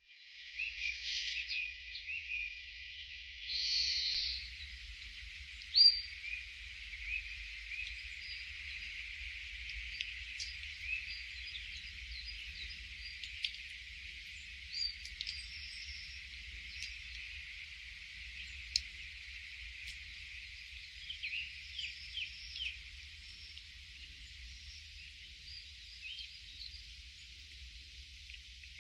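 Birds chirping with many short calls scattered over a steady hiss, and a faint low rumble underneath. One sharp chirp about six seconds in is the loudest.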